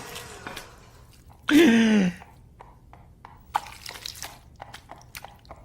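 A short vocal sound with falling pitch about a second and a half in, then a scatter of small sharp clicks and taps.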